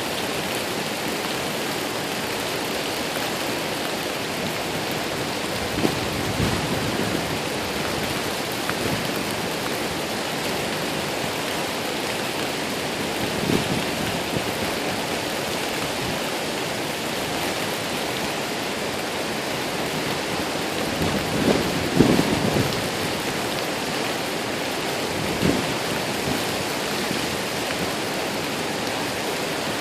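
Waterfall rushing, a steady loud wash of falling water. A few short low thumps rise above it, the strongest about 22 seconds in.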